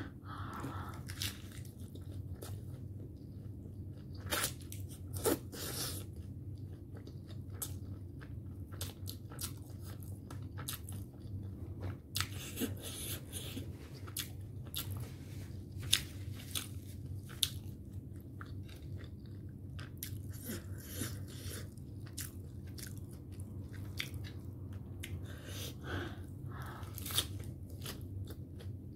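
Close-up chewing of a crisp lettuce leaf wrapped around shredded carrot, with sharp crunches of bites scattered throughout over a steady low hum.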